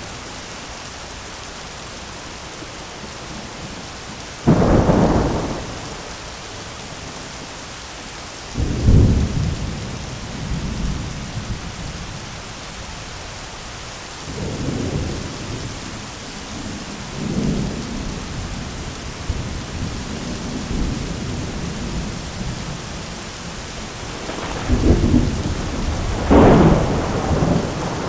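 Thunderstorm: steady rain hiss with repeated thunder. A sharp clap comes about a sixth of the way in and another about a third of the way in, then several softer rolling rumbles, and the loudest long rolling peal near the end.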